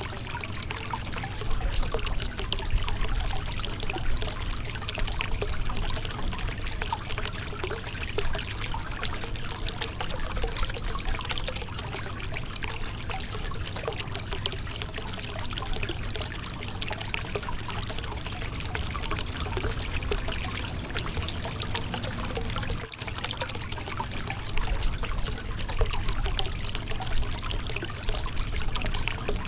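Shallow river water flowing and splashing over a rocky bed, a steady burble with many small trickles and splashes, dipping briefly about 23 seconds in.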